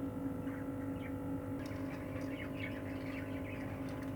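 A steady electrical hum runs throughout. From about a second and a half in, budgerigars start a dense run of short chirps.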